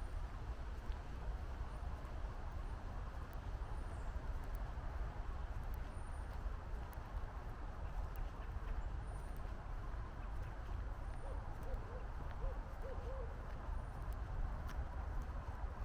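Steady low rumble of distant highway and city traffic, with a bird's thin, high chirp repeating every second or two. A little past the middle comes a faint run of four low hoots.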